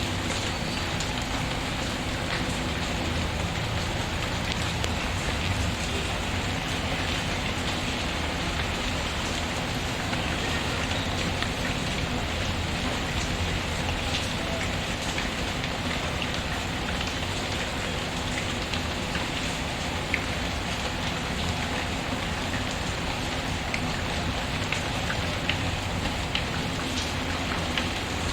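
Steady rain pattering on a surface, mixed with occasional faint crackles of a wood fire in a fireplace.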